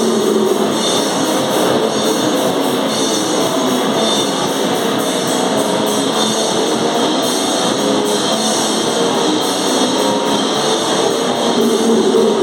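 Hardcore noise metal band playing live: loud distorted guitar over fast drumming with constant cymbal wash.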